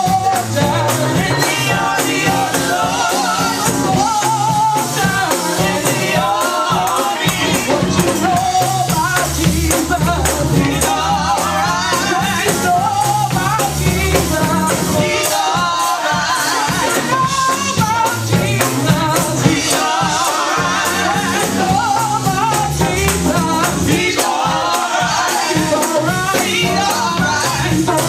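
Fast gospel praise music: voices singing a wavering melody over a driving beat of rapid percussion strikes and a low bass line stepping between notes.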